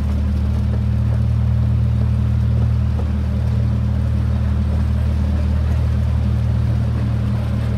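Miniature zoo train running, heard from its open passenger car: a steady low engine drone with no change in pitch.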